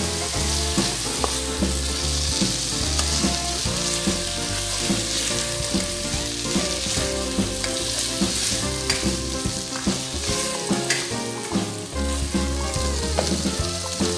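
Chicken, potato and carrot pieces sizzling in hot oil in a nonstick frying pan, stirred with a plastic spoon that clicks and scrapes against the pan now and then. Steady pitched background music plays underneath.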